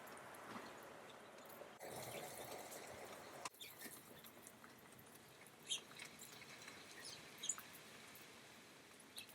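Faint, short high chirps and call notes of small songbirds, scattered and irregular, the clearest two a little after halfway, over a soft steady hiss.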